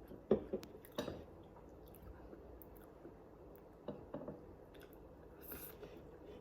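A person chewing food close to the microphone, with wet mouth sounds and a few short louder smacks about a second in and again about four seconds in.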